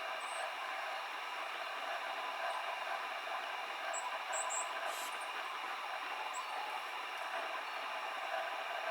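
Steady rushing of a mountain stream, with a few short, very high chirps from small birds, a cluster of them about four seconds in.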